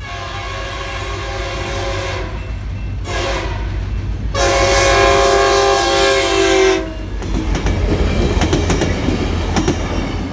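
New Mexico Rail Runner commuter train sounding its horn as it approaches: a long blast, a short one about a second later, then another long blast. It then rumbles past with clicking wheels over the rail joints.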